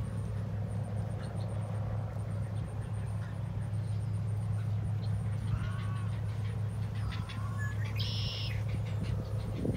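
A steady low hum runs throughout, with a few short bird calls over it: a couple of chirps about six and seven seconds in, and a brief high call about eight seconds in.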